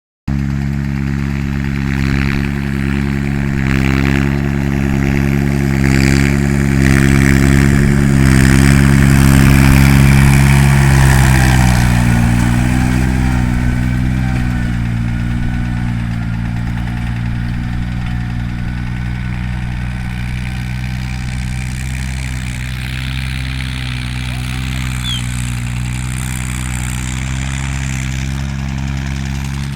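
Force Orchard 27 hp tractor's diesel engine running steadily. It grows a little louder toward the middle, then eases to a slightly lower, steady note about halfway through.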